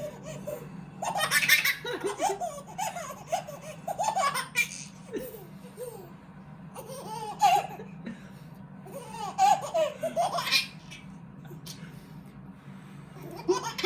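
A baby laughing in repeated bursts.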